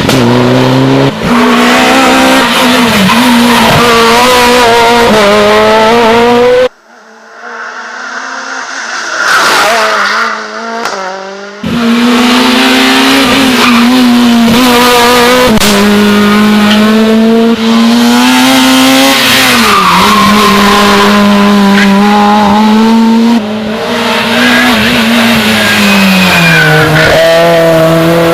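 Rally car engines at full throttle on a special stage, the note climbing through each gear and dropping at every shift. The sound drops away abruptly about seven seconds in and comes back just as suddenly near twelve seconds.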